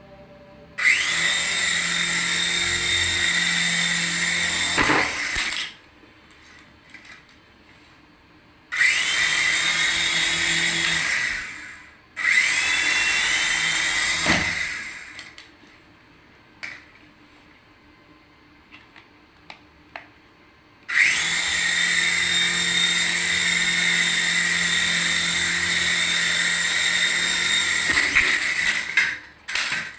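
Toy radio-control helicopter's small electric motors and rotors whirring, in four runs of a few seconds each. Each run starts with a quick rising whine as the rotors spin up, then stops; the second and third runs come almost back to back.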